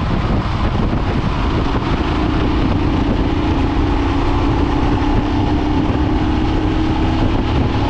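Wind buffeting the microphone on a moving motorcycle, with a steady engine tone that comes in about two seconds in and sinks slightly in pitch.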